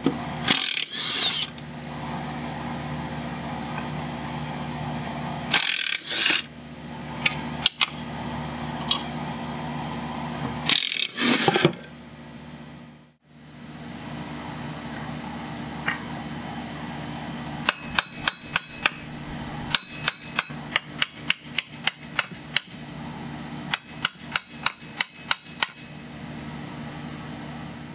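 Cordless impact wrench running in three short bursts, loosening the engine-to-deck bolts of a mower, over a steady low hum. Then, after a break, runs of sharp, quick hammer taps on a punch, driving the old blade adapter off the Briggs & Stratton engine's crankshaft.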